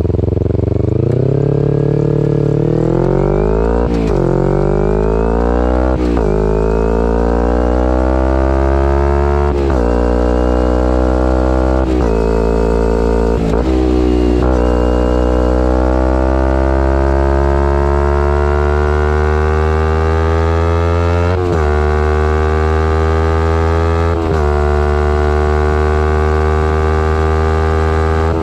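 Kawasaki Ninja 250R's parallel-twin engine through a Graves race exhaust, accelerating hard through the gears. The pitch climbs and then drops sharply at each upshift, several times, with one long steady pull in the middle.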